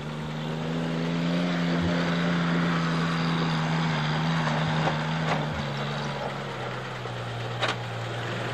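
The 1987 Suzuki Samurai's 1.3-litre four-cylinder engine runs close by at a steady pitch, easing a little lower after about six seconds. A single sharp click comes near the end.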